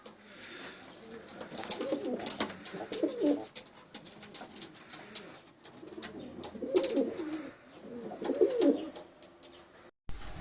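Domestic pigeons cooing, in two bouts of low, warbling coos, as a pair is being brought together for mating. Many sharp clicks and taps sound throughout.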